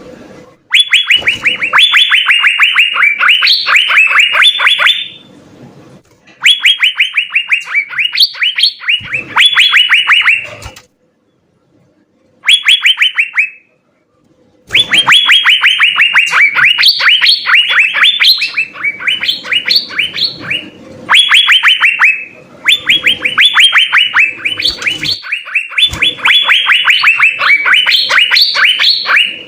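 Asian fairy-bluebird (cucak biru) singing loudly in bouts of rapid, repeated sharp notes. The bouts break off with short pauses several times.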